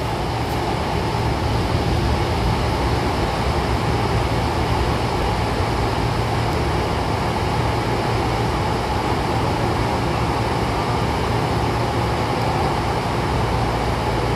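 Hankyu commuter train running through the underground Sakaisuji Line tunnel, heard from inside the car: a steady rumble of wheels and running gear with a low hum.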